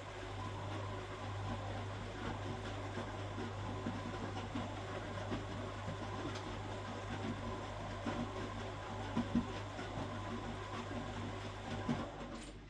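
1969 Zanker VA520 washing machine's Hanning gear motor turning the drum, a steady hum with irregular churning noise over it. It runs for about twelve seconds, then stops with a click near the end.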